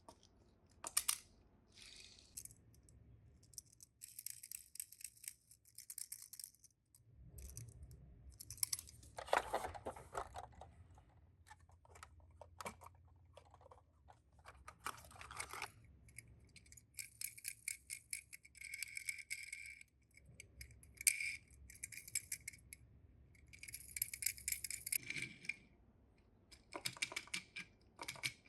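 Small hard objects clicking and rattling in irregular runs, as die-cast Tomica minicars and their plastic parts are handled, with a faint low hum through the middle.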